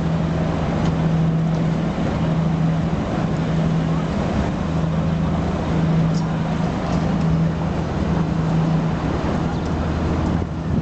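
Engine of a passing river boat running with a steady low hum, mixed with general background noise.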